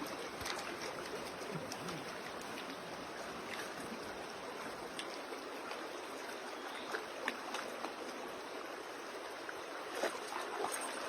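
Steady rushing of a flowing river, with a few faint ticks.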